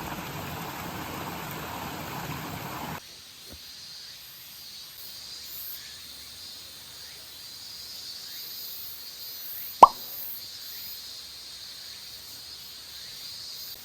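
Outdoor ambience with a faint steady insect drone. A rushing noise stops suddenly about three seconds in, and about ten seconds in a single short plop is the loudest sound.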